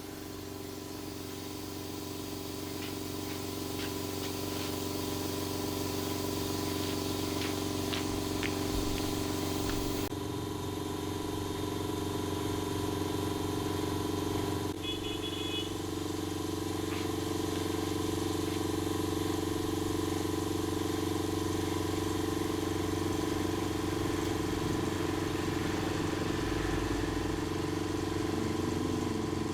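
A motor running steadily with a hum of a few fixed tones, building up over the first several seconds.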